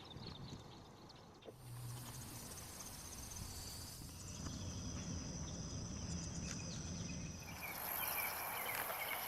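Insects trilling, a steady high-pitched buzz that starts about a second and a half in. A second, louder chorus of trills joins near the end.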